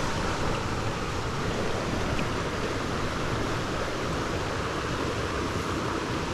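Fast-flowing moorland stream rushing over rocks: a steady, even rush of water.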